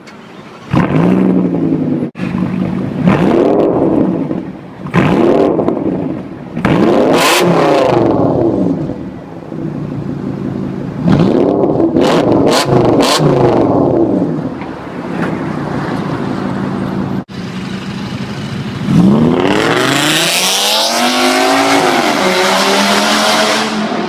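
Audi S8 with a GTHaus Meisterschaft aftermarket exhaust, revved repeatedly in short blips that rise and fall, with a few sharp cracks on the overrun. Near the end comes a longer, louder run of revs.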